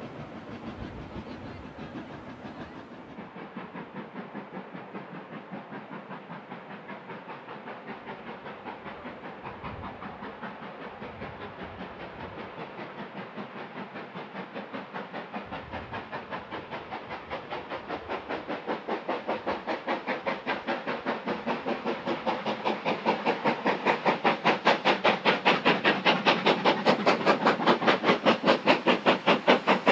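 Steam locomotive working hard up a steep gradient, its exhaust beats coming in a rapid, even rhythm and growing steadily louder as it approaches.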